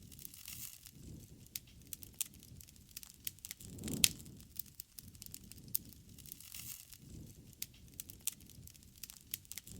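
Wood fire crackling, with irregular sharp pops and snaps over a low rush of burning, which swells about four seconds in along with the loudest pop.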